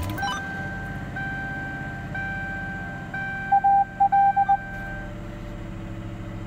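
Ford 4.6 L Modular V8 in a Lincoln Town Car idling steadily just after starting, with the dashboard's door-ajar warning chime repeating about once a second. Around the middle, a quick run of five or six louder beeps sounds.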